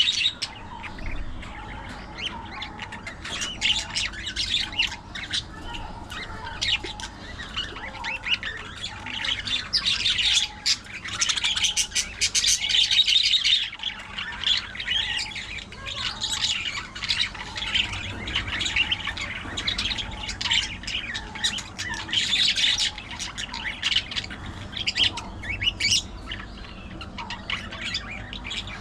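Budgerigars chirping, chattering and squawking, many short calls overlapping, with busier outbursts about ten seconds in and again past the twenty-second mark.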